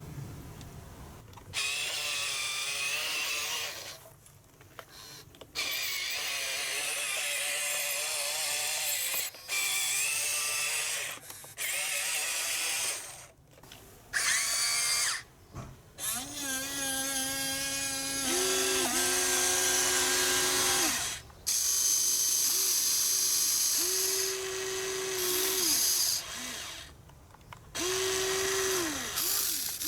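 Huina RC excavator's motors and gearboxes whirring and grinding in stop-start bursts as it works its arm and bucket. In the second half a steadier whine joins in and steps up and down in pitch.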